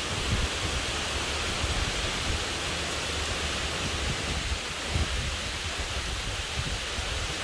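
Heavy rain falling in a steady hiss, with wind buffeting the microphone in low, uneven rumbles.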